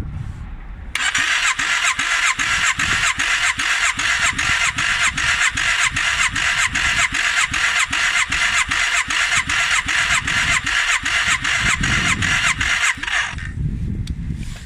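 Electric starter cranking a Yamaha DragStar 400's air-cooled V-twin engine. It turns over in an even, slow rhythm of about two to three compression strokes a second for roughly twelve seconds, then cuts off suddenly without the engine catching. Low wind rumble on the microphone can be heard before and after.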